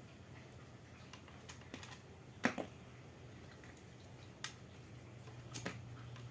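Scattered sharp clicks and taps of small hard objects being handled, the loudest a double click about two and a half seconds in, over a low steady hum.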